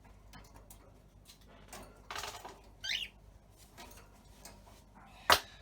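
Cockatiel nibbling and chewing with its beak: scattered small clicks and a short scratchy rasp, a brief chirp about three seconds in, and one sharp, louder click near the end.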